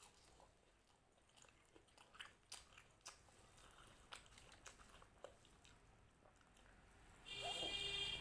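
Faint close-up chewing and crunching of crunchy food, with scattered small bite clicks. About seven seconds in, a louder steady high electronic tone starts.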